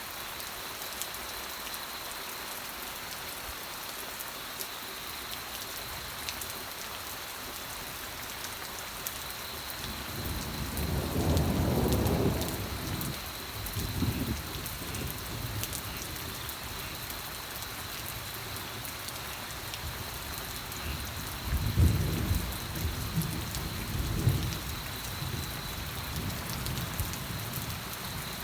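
Steady rain hissing, with thunder rumbling twice: a long low roll about a third of the way in, and another with several sharper peaks about three quarters of the way through.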